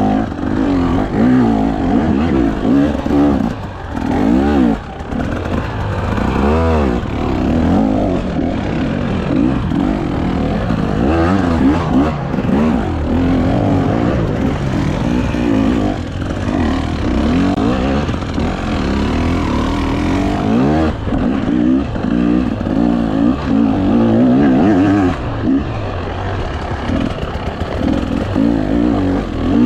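Enduro dirt bike engine being ridden hard, revving up and easing off over and over, its pitch rising and falling every second or two.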